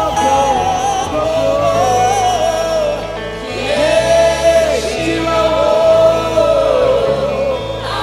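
Gospel song with a choir singing over a band with a steady bass line.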